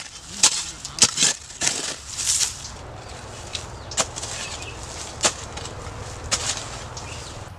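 Hands patting and slapping chicken keema vada mixture into flat patties: a quick run of sharp slaps in the first two seconds, then single pats about once a second.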